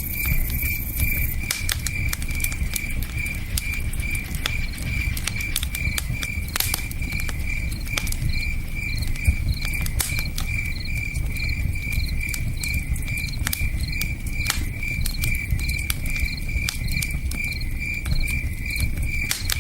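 Campfire crackling with frequent sharp pops, over a low, steady rush of river water, while a cricket chirps in an even, unbroken pulse.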